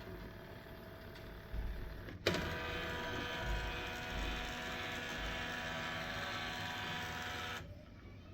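HP M1136 MFP laser printer's mechanism: a sharp click, then a small motor runs with a steady whine for about five seconds and stops abruptly, as in the printer's initialisation cycle.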